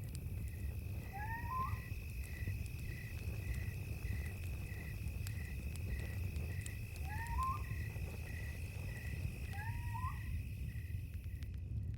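Night insects and campfire: a steady high cricket trill with a pulsing chirp about three times a second, over a low rumble with scattered small crackles from the fire. An animal gives a short rising call three times, a little after the start, about two-thirds of the way in, and near the end.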